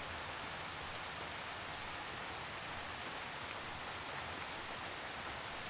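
Steady, even rain: a soft drizzle falling with no single drops or thunder standing out.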